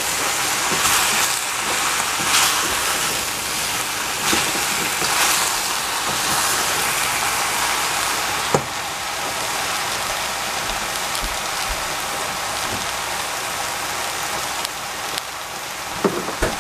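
Diced eggplant sizzling as it fries in a stainless steel saucepan, a steady hiss throughout. A wooden spatula stirs the pieces through the first half, ending with a sharp knock about eight and a half seconds in, and a couple of clicks come near the end.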